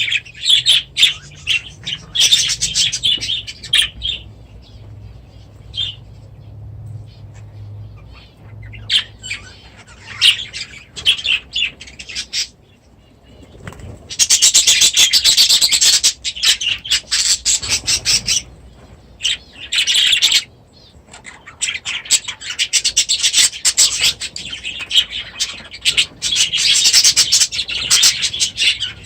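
A flock of small aviary birds chirping and chattering in bursts, with some wing flapping. The calls are loudest and densest for a couple of seconds about halfway through, thin out briefly, then pick up again.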